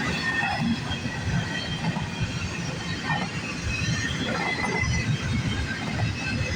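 CN freight train's cars rolling past at speed: a steady rumble of steel wheels on the rails, with thin high squeals from the wheels.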